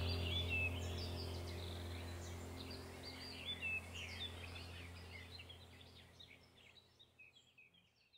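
Birds chirping over a low steady hum, the whole slowly fading away toward the end.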